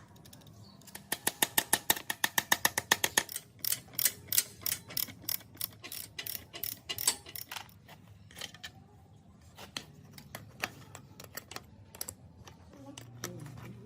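Metal clicking and clinking of hand tools working on small motorbike parts: a run of rapid, even clicks about ten a second lasting about two seconds, then scattered single clicks and clinks.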